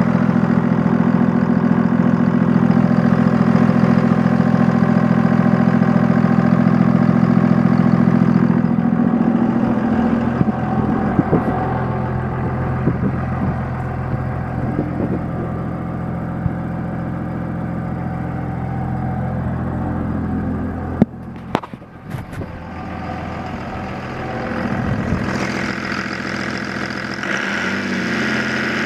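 1999 Dodge Ram 3500's 5.9-litre Cummins inline-six turbo diesel running. Loud and steady for the first eight seconds or so, then quieter and less even, with a couple of sharp clicks about three quarters of the way through.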